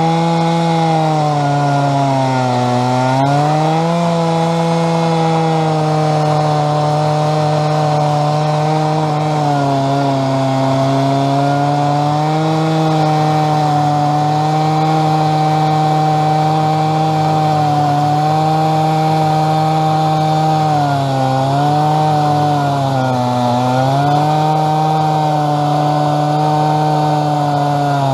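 Stihl chainsaw running at full throttle on a chainsaw mill, ripping a log lengthwise into inch-thick slabs. The steady engine note sags briefly a few times under load in the cut.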